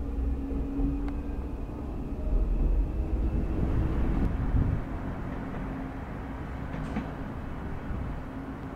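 Suburban passenger train running slowly on the tracks: a low rumble of wheels and running gear over a steady hum, swelling for a couple of seconds in the middle.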